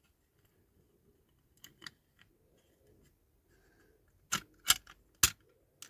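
Small hard clicks and knocks of diecast model car parts being handled and pushed together while fitting the boot and interior: a few light clicks, then three sharp loud clicks in quick succession about four seconds in.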